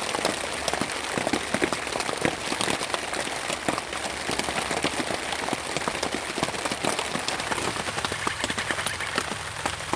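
Rain falling on a tarp tent overhead, heard from underneath: a dense, steady patter of many irregular drops hitting the fabric.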